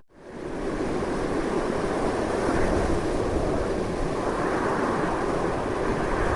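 Strong wind blowing steadily, a continuous rushing noise. It cuts out almost to silence for a split second right at the start, then swells back.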